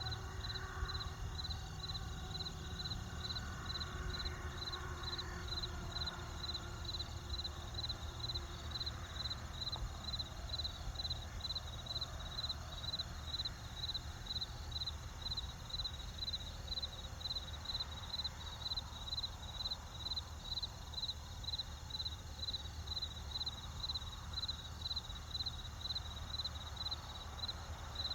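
Cricket chirping steadily, evenly spaced at about two chirps a second, over a low steady rumble.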